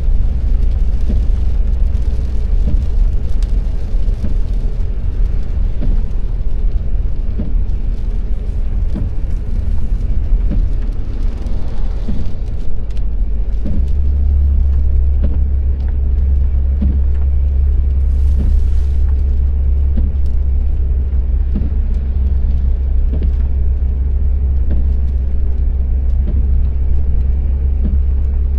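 Car driving, heard from inside the cabin: a steady low engine and road rumble that grows louder and deeper about halfway through, with faint scattered ticks and a brief hiss.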